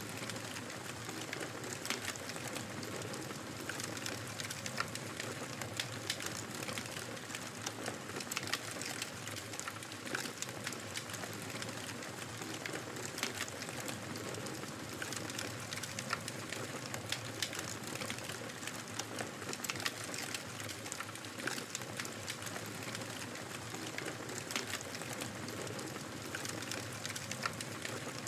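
Wood fire crackling in a fireplace: many small, sharp crackles and pops at irregular intervals over a steady, soft hiss of burning.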